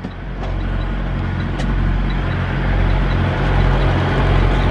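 Semi truck's diesel engine idling steadily, a low even hum, with a couple of faint clicks.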